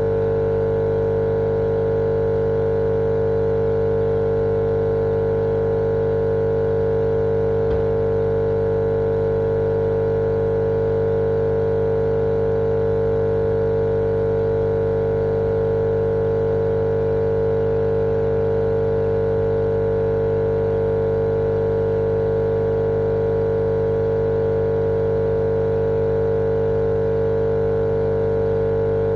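Steady, unchanging machine-like hum with a strong mid-pitched tone and several fainter ones over a bed of noise, a continuous white-noise track for lulling babies to sleep.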